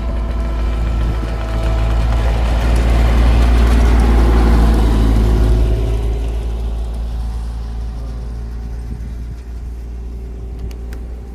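Diesel engine of heavy paving machinery running at the asphalt site, growing louder to a peak about four seconds in and then fading, as if the machine passes close by.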